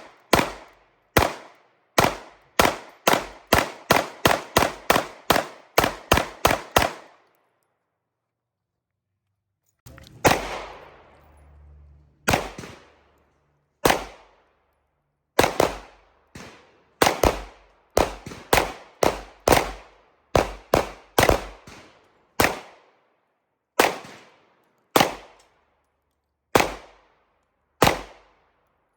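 SAR USA P8L 9mm pistol firing at the range: a quick string of about a dozen shots, then after a pause of a few seconds, more shots at a slower, uneven pace.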